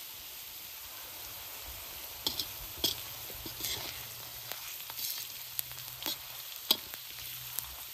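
Food sizzling steadily in hot oil in a cooking pan. From about two seconds in there are now and then sharp clicks and pops.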